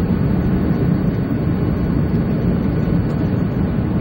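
Steady running rumble of a train, heard from inside a moving passenger car.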